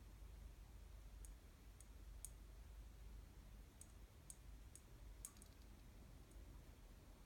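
Faint, sharp clicks from budgerigars in a cage, about nine of them at irregular intervals, over near-silent room tone.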